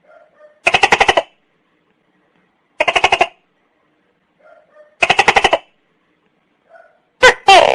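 Tokay gecko calling: three short rattling bursts of rapid clicks about two seconds apart, then near the end two loud syllables that fall in pitch, the start of its 'to-kay' call.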